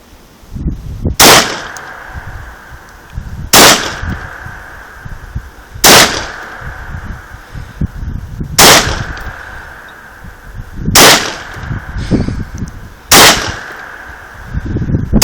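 Six single gunshots from a firearm, fired at a slow, even pace about every two seconds. A short ring lingers after each shot.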